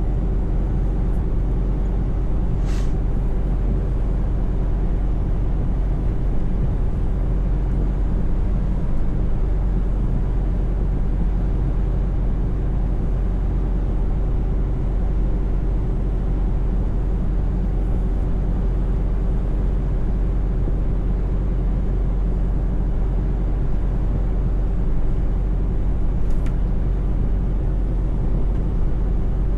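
Scania S580 truck's V8 diesel engine running steadily at cruising speed, with a low, even drone and road rumble.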